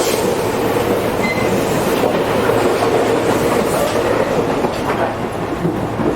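Tobu 8000 series commuter train running, heard from inside the car: steady rolling noise with wheels clicking over rail joints now and then, as the train approaches a station stop.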